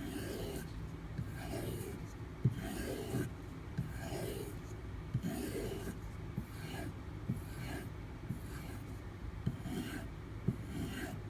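D2 steel knife blade drawn in repeated alternating strokes across a compound-loaded bovine leather strop, a steady rhythm of scraping strokes about one and a half a second, each with a light click at the turn.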